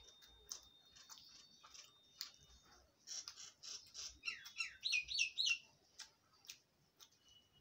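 A small bird chirping: a quick run of sharp, sliding chirps, loudest about four to five and a half seconds in.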